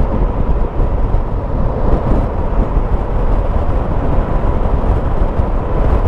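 Motorcycle running at a steady cruising speed, with steady wind and road rush over the engine.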